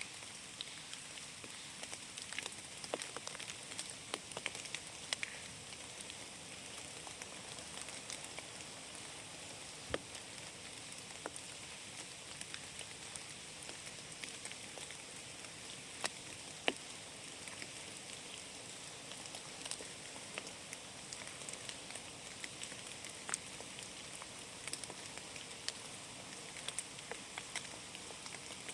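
Rain falling in a forest: a steady fine patter, with scattered louder single drips striking now and then.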